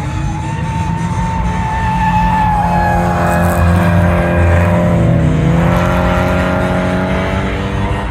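A car engine at high revs, its pitch dipping about five seconds in and then climbing again, over background music.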